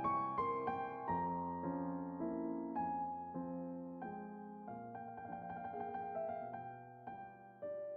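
Background piano music: a gentle melody of single notes and chords, fading away toward the end.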